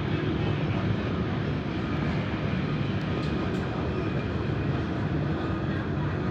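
Steady low rumble of jet airliner noise, continuous and unchanging, with a faint hum over it.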